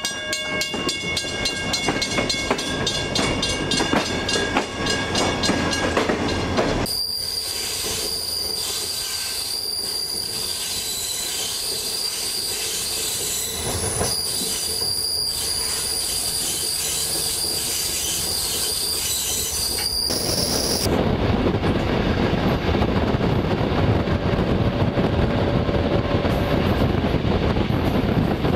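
Passenger train moving off. First a level-crossing bell rings in rapid strikes, about four a second. From about seven seconds in, the carriage wheels squeal with a high steady tone on a curve. From about twenty seconds in there is a louder low rumble of the train running along the track.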